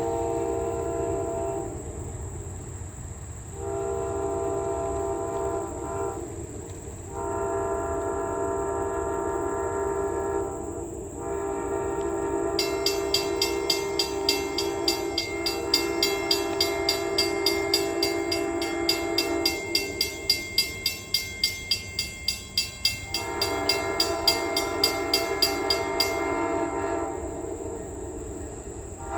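A locomotive air horn sounding a chord in a series of long blasts with short breaks, one of them held for several seconds. Partway through, a bell starts ringing fast and evenly and keeps going for about thirteen seconds.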